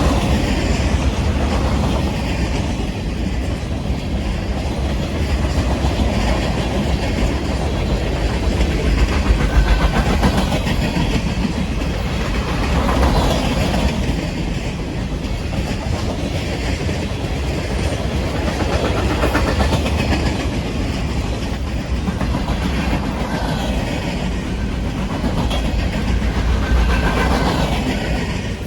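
A train rolling steadily past on the rails, its wheels and cars making a continuous loud rumble with no break.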